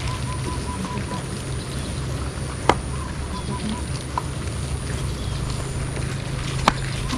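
Floodwater rushing steadily over flooded rice fields, with a quick run of short high peeps twice and two sharp clicks about four seconds apart.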